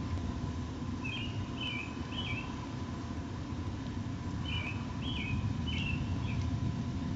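Short, high bird chirps: three about a second in, and four more from about four and a half seconds. They sit over a steady low rumble and a faint constant tone.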